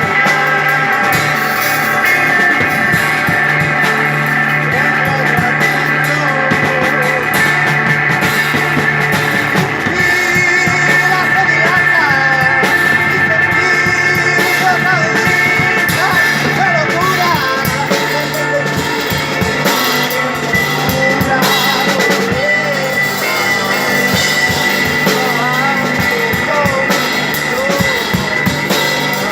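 Live psychedelic rock from a guitar-and-drums duo: electric guitar playing sliding, bending notes over held chords, with a steady drum-kit beat underneath.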